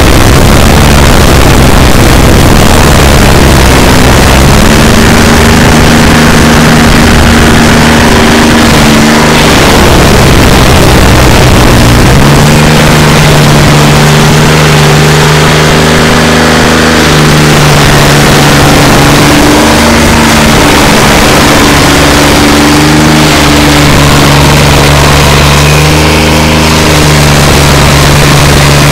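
SP-7015TRX stump grinder's engine running loud and steady. Its pitch shifts several times as the load changes, with a clear drop about twelve seconds in, over a constant rushing noise.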